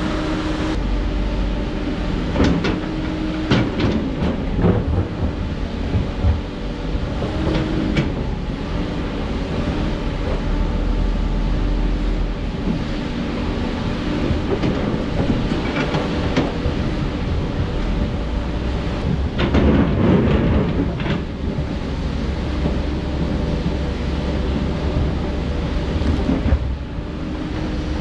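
Heavy earthmoving machinery with a diesel engine running steadily under repeated sharp metal clanks and knocks. A louder rattling stretch comes about twenty seconds in.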